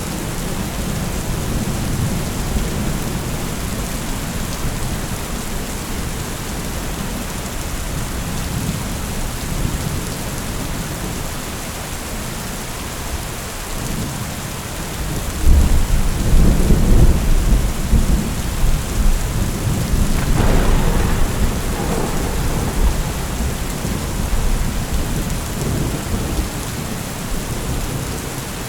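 Steady rain falling, with a deep roll of thunder that breaks in about halfway through, rumbles loudest for a few seconds and slowly fades.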